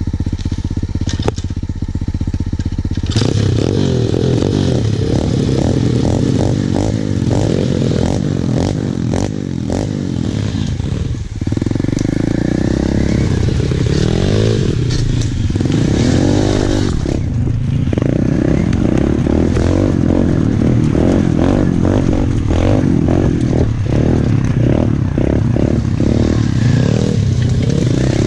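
Pit bike engine idling steadily, then from about three seconds in revving up and down as it is ridden along a rough dirt trail, with clattering knocks from the bike over the ground. The engine drops off briefly twice before picking up again.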